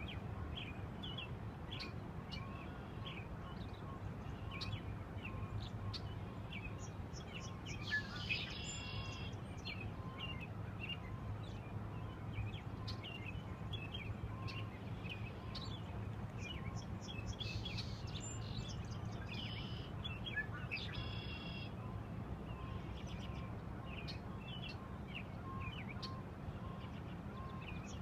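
Wild birds chirping repeatedly, with a few louder harsh, buzzy calls now and then, over a steady low rumble.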